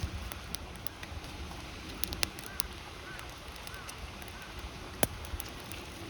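Wood fire crackling with scattered sharp pops, the loudest about five seconds in, over the steady rush of a river.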